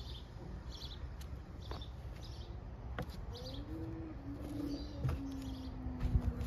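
A small bird chirping over and over in short, high chirps, about two a second, over a low outdoor rumble. A steady low hum starts a little after halfway through.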